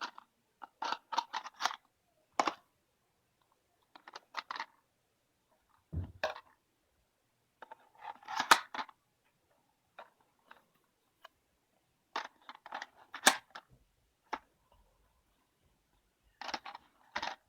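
Toy blocks being handled and dropped into a toy trailer: scattered clicks and clatters in small clusters, with a dull thump about six seconds in.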